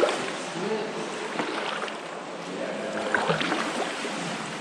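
Kayak paddles dipping and splashing in still water, a few separate strokes, with faint voices in the background.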